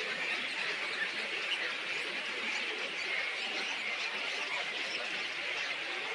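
Many small birds chirping together in a dense, steady chatter.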